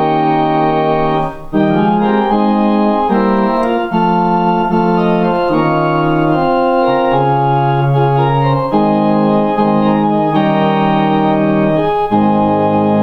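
Organ music: slow, sustained chords moving from one to the next, with a brief break about a second and a half in.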